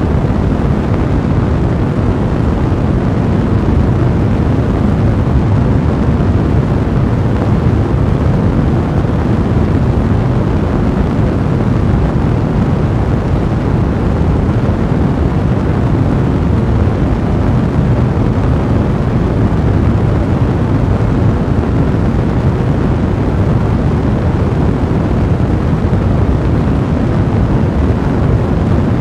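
Fire blaze burning steadily: a loud, even, low rumbling rush of flame.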